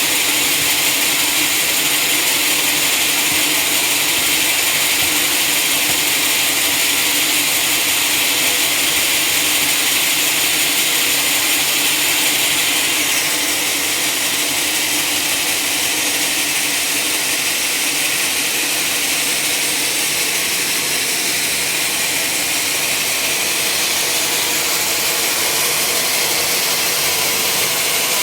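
Sawmill machinery running steadily: a loud, even mechanical hiss and whine, dropping slightly in level about halfway through.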